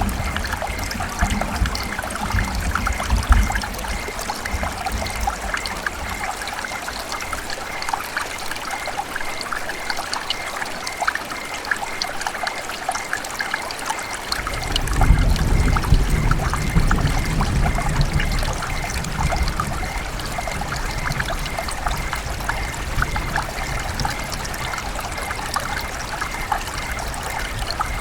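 River water running and trickling in a steady babble full of small splashes. A low rumble lies underneath for the first few seconds and again from about halfway through.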